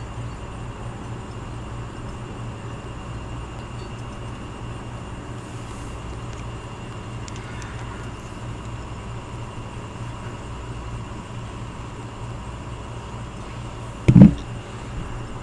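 Outdoor air conditioning unit running with a steady low hum. A single loud, dull thump comes near the end.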